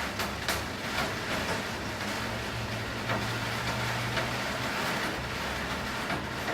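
Steady rainfall, with sharp drips tapping every second or so, over a steady low hum.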